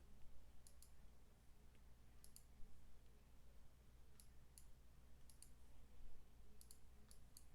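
Faint computer mouse clicks, single and in quick pairs, scattered over a low steady hum.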